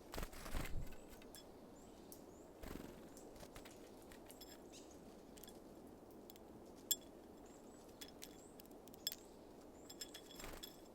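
Small birds at a seed feeder: scattered sharp taps and clicks, with a few faint, very short high chirps. There are brief rustling bursts, the loudest about half a second in, another near three seconds and one near the end.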